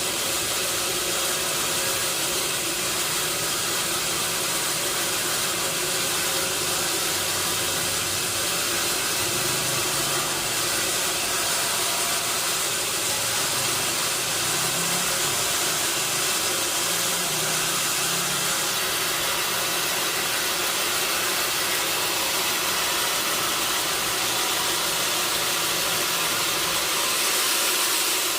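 Sawmill machinery running steadily: a constant even noise, strongest in the upper range, with a faint steady hum underneath.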